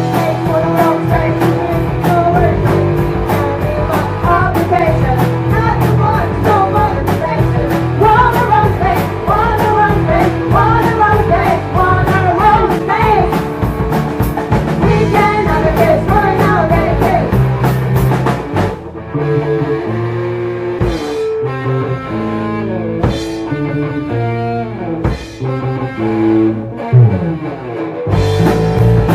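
Live rock band playing: drum kit, electric guitar and singing. A little past halfway the drums thin out into a sparser instrumental break, and the full band comes back in near the end.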